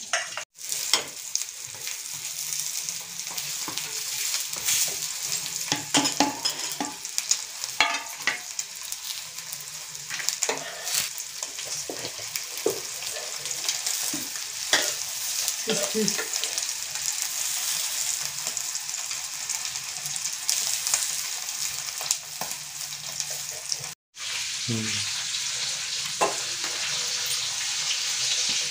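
Chapati-wrapped chicken rolls sizzling in oil on a hot flat griddle (tawa), with a steady hiss and scattered clicks and scrapes from a steel spatula turning them.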